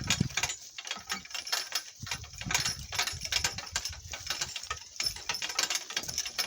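Donkey-drawn cart rattling as it rolls over rough ground: a dense run of irregular clicks and knocks.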